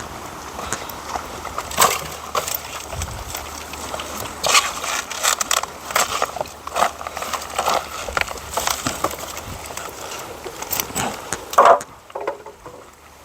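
Firewood being handled by hand: pieces of wood knocking and scraping together, with crackling and rustling of dry debris, in an irregular run of knocks, the loudest just before the end.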